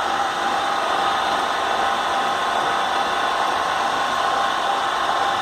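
Blast-furnace discharge gate's drive running steadily in reverse on a test run: a steady mechanical hum and hiss with a constant whine.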